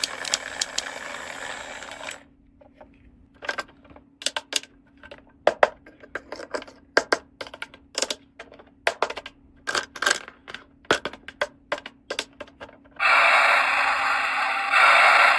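Handling of small plastic toy parts and packaging: a rustle for about two seconds, then many light, irregular clicks and taps, several a second. About thirteen seconds in, a louder steady scraping rustle starts.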